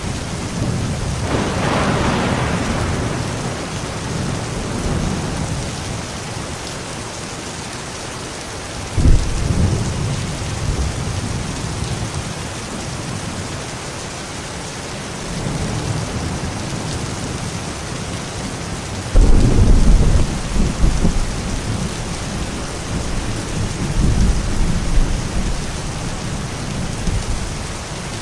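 Thunderstorm: steady rain with several rolls of thunder over it. The first rumble crackles about two seconds in. Sudden, heavier claps come about a third of the way through and again about two-thirds in; the later one is the loudest.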